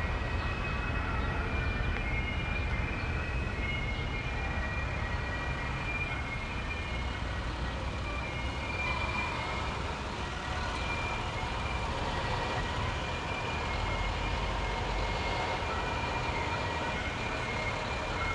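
Fire trucks rolling past at parade pace, their engines running with a steady low rumble. Thin high tones come and go throughout, and a lower steady tone joins about halfway through.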